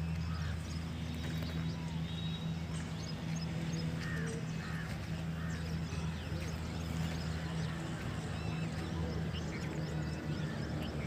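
A diesel engine running steadily at a constant pitch, with a few faint short calls above it.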